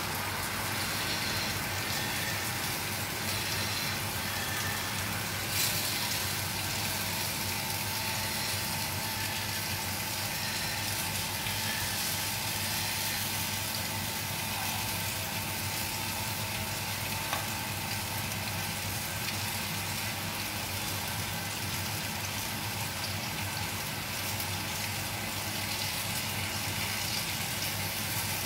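Floured salmon fillets frying in oil in a pan, a steady sizzle, with a light click about five and a half seconds in.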